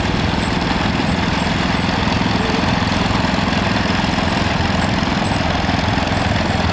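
Vintage farm tractor engines running steadily, a continuous low engine rumble.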